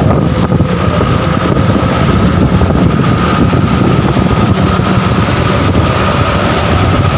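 Vehicle engine running loudly and steadily, a dense low drone with a constant whine over it.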